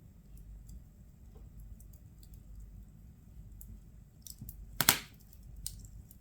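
Firewood burning in a fireplace: a low steady rumble with scattered small crackles, then a few sharp pops and one loud crack about five seconds in.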